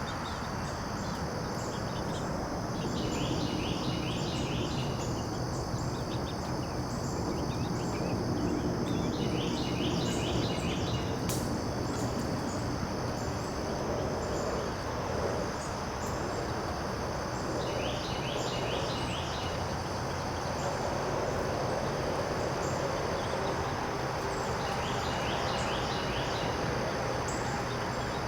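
Garden ambience: a steady high insect drone, with a songbird repeating a short rhythmic song phrase about five times. Under it runs a low, even background rumble.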